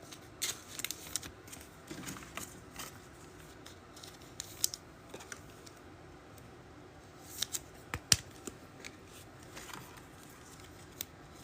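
Trading cards and foil packs being handled on a table: soft, scattered clicks and rustles, with a few sharper clicks about two thirds of the way through.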